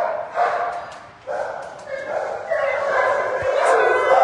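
Several dogs barking at once in a shelter's kennel room, an overlapping din with a brief lull about a second in.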